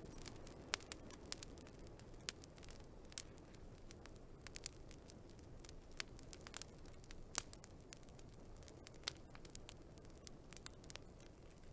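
Wood fire crackling: irregular sharp pops and snaps, several a second, over a soft low rush of burning.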